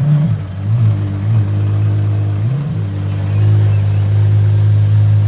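Apollo Intensa Emozione's V12 engine idling steadily, given a few light throttle blips in the first few seconds that briefly raise its pitch.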